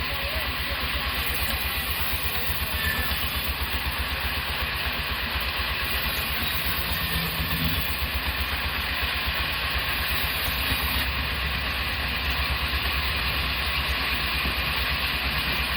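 Sawmill machinery running steadily: a continuous engine-like drone with a fast low pulsing underneath and a hiss on top.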